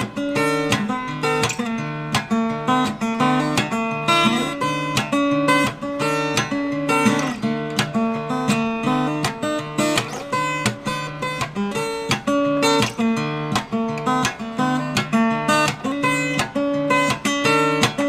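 Acoustic guitar playing a fingerpicked introduction, with a steady repeating bass note pattern under the melody.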